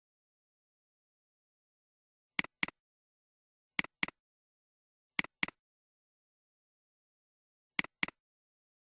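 Computer mouse clicks in pairs, four quick double clicks spaced a second or more apart, with dead silence between them.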